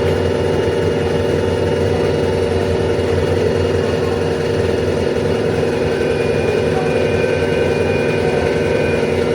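Steady mechanical running noise inside a 12-series passenger coach hauled by an electric locomotive, an even hum with steady tones and no distinct knocks.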